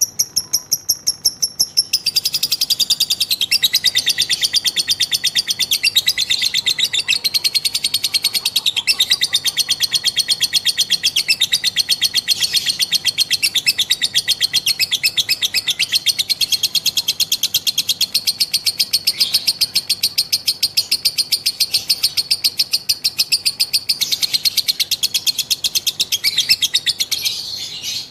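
Female lovebird giving a long ngekek: one continuous rapid, rattling chatter of high repeated notes, fuller a couple of seconds in and held without a pause for nearly half a minute before it stops.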